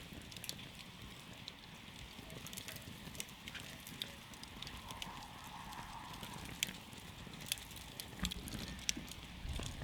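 Wood campfire crackling, with frequent sharp pops and snaps over a low, steady rumble of the flames. Several louder pops come in the second half.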